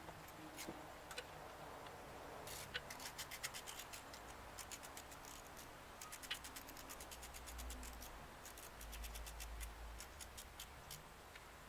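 Ratchet wrench clicking faintly in short bursts, with two fast runs of even clicks, one a few seconds in and one near the end, and scattered single ticks between them.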